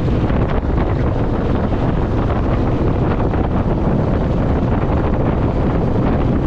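Steady wind rush buffeting the microphone while riding a Honda VTX1800 motorcycle, with the bike's low running underneath.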